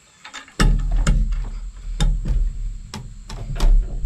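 Cant hook working a heavy squared timber on a sawmill bed: a sudden heavy thump about half a second in, then a run of knocks and wooden scraping as the beam is levered round.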